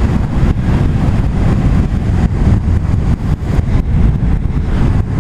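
Loud rush of wind and road noise from riding a Zero SR electric motorcycle at speed, strongest in the low end and flickering unsteadily. The electric motor itself is barely heard.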